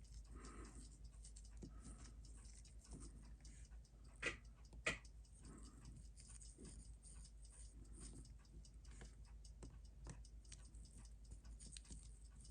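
Quiet watch-bench work: faint small ticks and clicks throughout, with two sharper clicks about four and five seconds in, from tools handling parts of a chronograph watch movement being taken apart.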